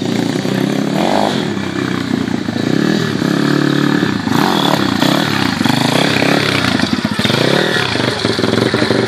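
Pitbike engine revving up and down repeatedly as the throttle is opened and closed.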